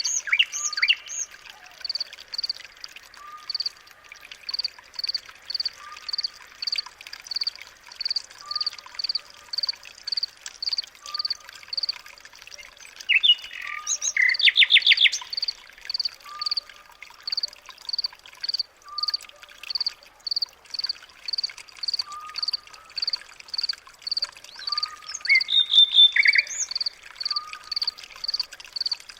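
Birds calling: one bird repeats a short high note steadily, somewhat faster than once a second, while a lower note comes every couple of seconds. Bursts of rapid chirping come about halfway through and again near the end.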